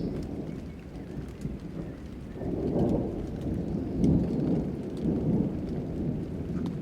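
Rolling thunder rumbling over steady rain, the rumble swelling about two and a half seconds in, with scattered raindrop ticks.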